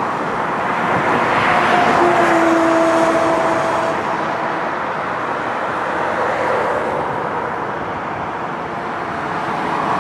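Road traffic: vehicles passing with a steady rush of tyre and engine noise, and a slightly falling tone as one goes by about two seconds in.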